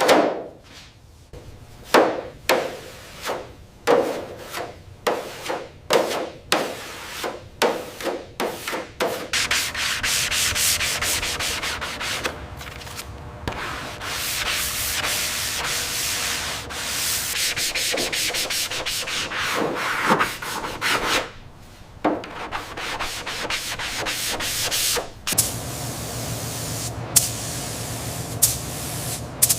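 Repeated rubbing strokes on a surface, like sanding. The strokes come one by one at first, then run together into continuous rubbing. Near the end they give way to a steadier sound with a low hum.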